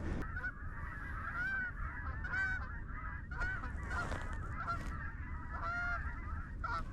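Geese honking: a run of short, repeated honks and clucks, overlapping through the whole stretch, over a steady low wind rumble.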